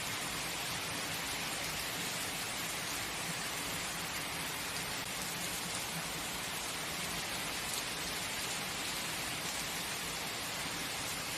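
Heavy rain falling steadily, an even hiss with no thunder or other distinct events.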